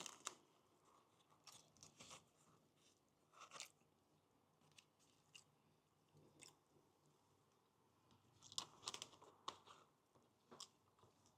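A person biting into and chewing a taco: faint, scattered crunches in small clusters, the loudest bunch about nine seconds in.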